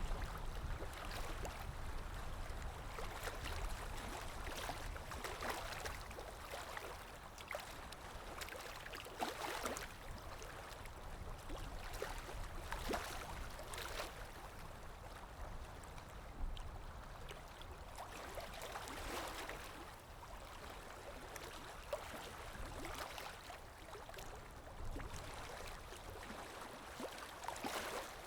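Underwater ambience: a steady low rumble with gurgling and bubbling that swells and fades every few seconds.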